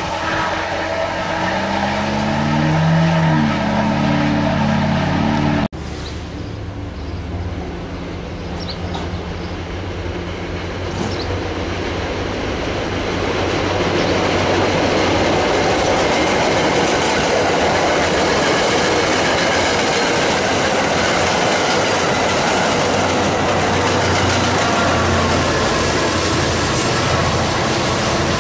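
A diesel commuter locomotive passes close by, its engine note sliding in pitch as it goes. After a break, a passenger train rolls past with steady wheel-on-rail noise and some clickety-clack, growing louder about halfway through.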